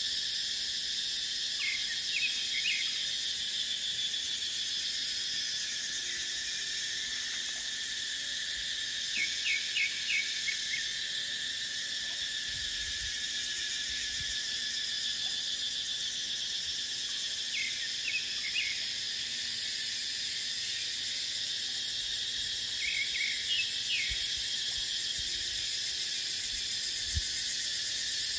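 Cicadas buzzing in a dense, steady chorus, swelling into a fast pulsing near the end. A bird gives short clusters of three or four quick chirps every several seconds.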